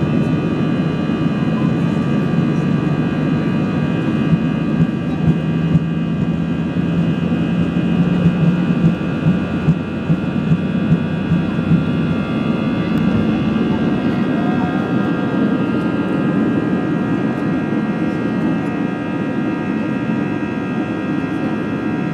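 Airbus A320 jet engines at high thrust during takeoff, heard from inside the cabin: a steady roar with a set of steady whining tones over it. A series of short thumps comes between about 4 and 12 seconds in.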